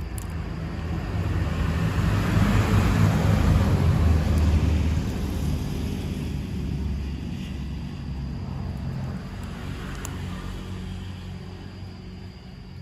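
A low vehicle rumble that swells to its loudest about three to four seconds in, then slowly fades away.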